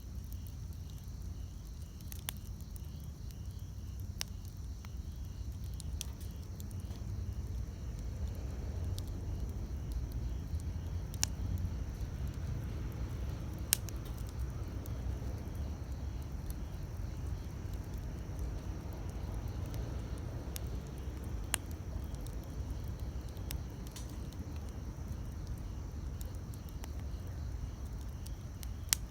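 Wood campfire burning with a low steady rumble, punctuated every few seconds by single sharp crackles and pops from the burning wood. A steady chirring of crickets runs faintly underneath.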